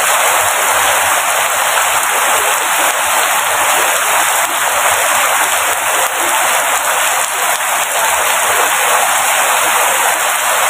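Rain falling steadily: an even, dense hiss with little low rumble and no single drops standing out.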